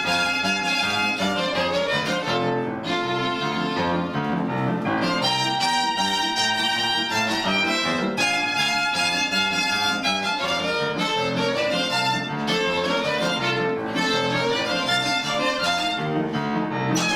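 Live duet on bowed strings, violin to the fore, with piano accompaniment, playing a lively piece of many short notes without a break.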